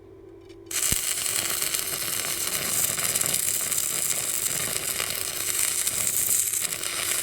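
Stick (MMA) welding arc at about 120 amps crackling and sizzling steadily on thick steel. It strikes up abruptly about a second in and runs until it cuts off right at the end.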